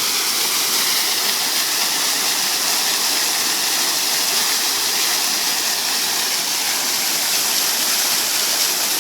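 Water fountain's jets and falling water splashing in a steady, unbroken rush.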